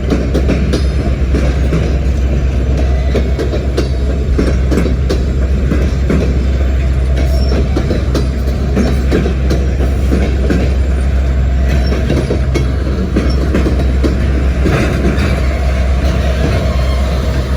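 Freight train cars rolling past, wheels clicking over rail joints in an irregular rhythm over a steady low rumble.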